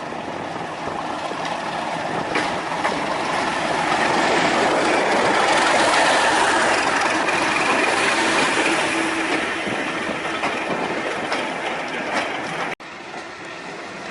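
A train rolling past on the track, its wheel and rail noise building to its loudest about six seconds in and then fading. The sound drops off suddenly near the end and carries on quieter.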